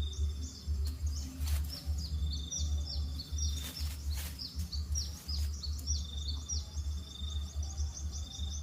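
Rapid, repeated high bird chirps with a steady high trill in stretches, over a loud low pulsing rumble.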